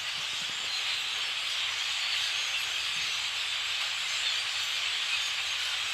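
A huge flock of blackbirds calling all at once in the trees: countless calls blend into one dense, steady hiss-like din.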